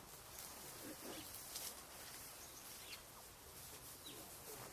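Faint rustling and crackling of dry fallen leaves as an eyebrowed thrush flips them over while foraging, in several short spurts. A few brief high bird chirps come through as well.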